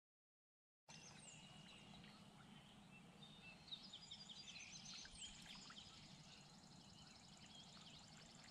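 Silent for about the first second, then faint open-air ambience with wild birds chirping and calling, joined by a rapid high trill from about halfway in.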